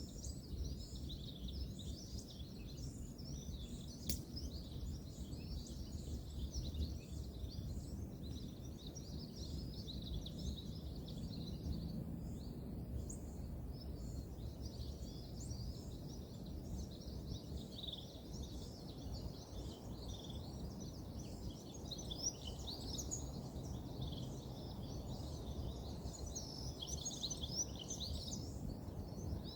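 Many birds chirping and calling without a break, over a steady low rumble of distant road traffic. A single sharp click comes about four seconds in.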